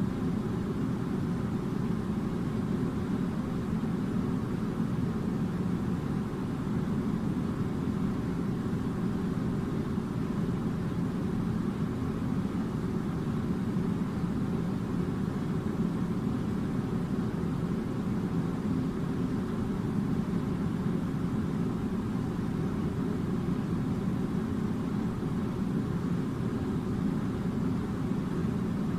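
Steady low mechanical hum with no breaks or changes in level.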